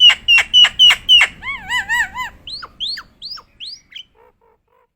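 A jalak nias, a bird of the starling family, calling in full voice. It gives a quick run of five or six loud, sharp notes, then a looping warbled whistle repeated four times, then four short rising whistles, and falls silent just past four seconds in.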